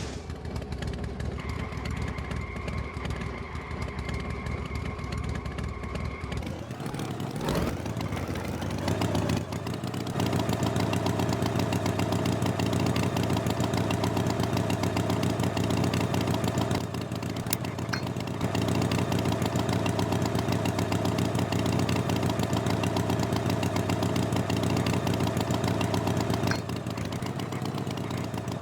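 An engine running steadily, revving up and back down about seven seconds in, then running louder.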